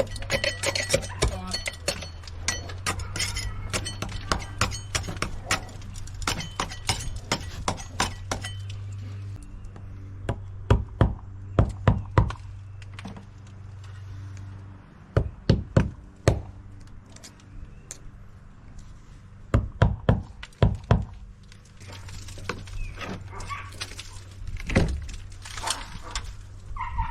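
Metal clinks and knocks from work on a bronze chainplate's fasteners, with three groups of four or five sharp hammer-like strikes in the middle, over a steady low hum that stops and starts.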